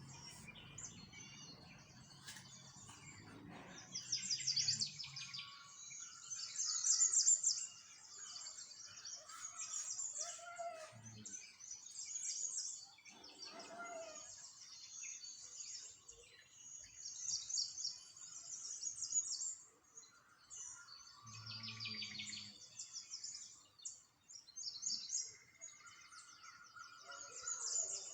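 Small songbirds chirping and singing, with many overlapping rapid high trills coming in bursts and a few lower calls in between. A brief low hum sounds at the start and again about two-thirds of the way through.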